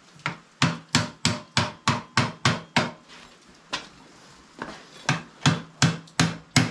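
Repeated hammer blows on metal, struck in a quick run of about three a second, a pause with one lone blow, then another steady run.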